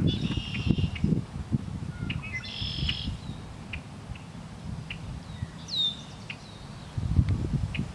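Birds singing over a cattail marsh: two short buzzy phrases early and a falling whistle about six seconds in. Low rumbling thuds come near the start and again, louder, near the end.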